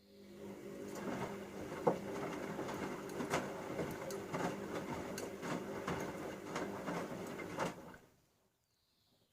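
Bauknecht Super Eco 6413 washing machine turning its drum for about eight seconds during the wash. A motor hum runs under sloshing and irregular soft knocks from the laundry, then the drum stops.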